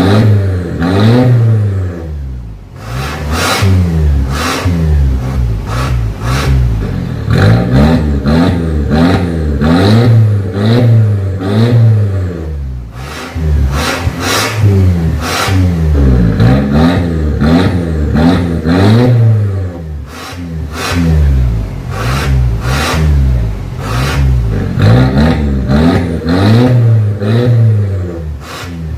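Mercedes-Benz C200 W204 four-cylinder petrol engine revved again and again through a valved full-system aftermarket exhaust, its pitch rising and falling every second or two, with short sharp cracks between the revs.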